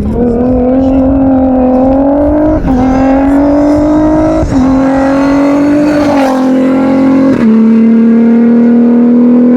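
Rally raid car engine running hard at high revs. The loud, steady engine note is broken four times by brief gear changes and settles slightly lower and steady for the last couple of seconds.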